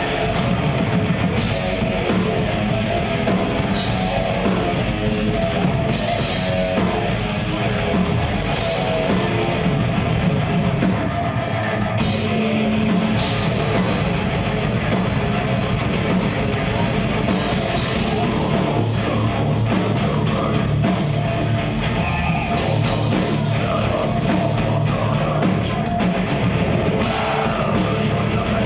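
Live progressive death metal band playing: distorted electric guitars, bass and a pounding drum kit, loud and continuous.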